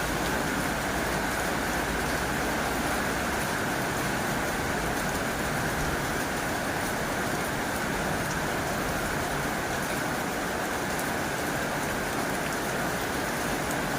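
Heavy rain falling steadily on a tin roof: an even hiss with faint scattered drop ticks.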